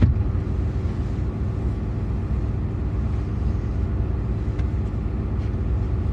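Truck's engine idling, a steady low rumble, with a brief bump right at the start.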